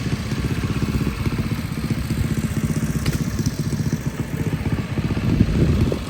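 A small engine running steadily at an even speed, with a fast low-pitched firing pulse.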